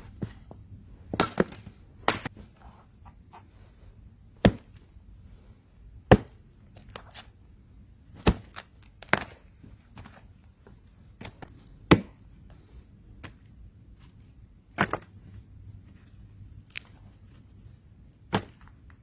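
Wood being chopped: about ten sharp, separate strikes at irregular intervals of one to three seconds.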